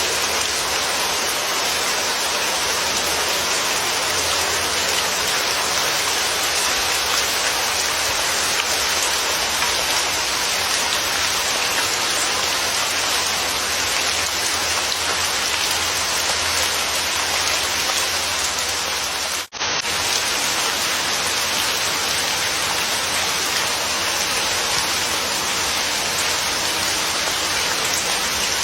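Steady rain, a dense even hiss, that cuts out for a split second about two-thirds of the way in.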